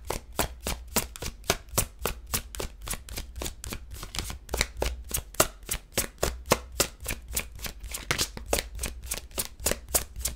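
Tarot deck being shuffled by hand: a quick, even run of card taps, about five a second.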